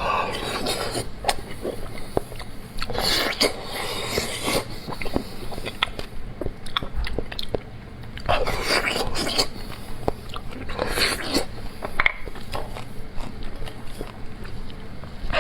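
Close-miked eating of beef bone marrow: wet chewing and biting in uneven bursts, with small sharp clicks in between.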